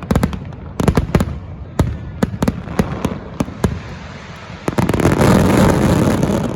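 Fireworks going off: sharp bangs in quick succession, then a dense, loud stretch of noise starting about five seconds in.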